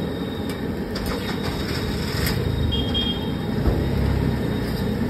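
Aloo tikkis sizzling in shallow oil on a large flat griddle (tawa), over a steady low rumble, with a light click about two seconds in.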